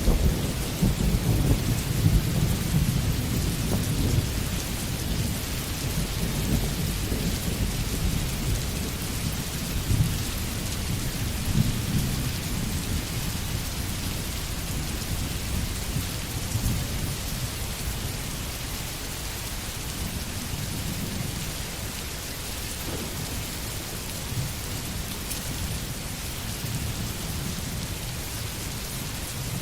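Steady rain falling, with a low rolling rumble of thunder that is loudest in the first several seconds and fades away over the following ten or so.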